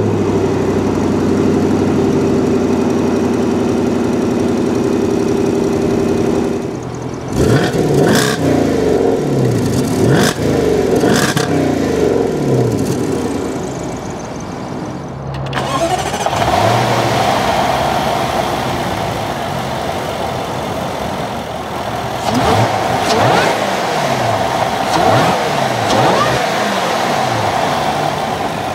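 2014 Jaguar XJR L's supercharged 5.0-litre V8 idling steadily through its quad exhaust, then revved in several quick blips before settling back to idle. About halfway through the sound switches to a closer engine-bay perspective with a steady higher-pitched note and another series of rev blips.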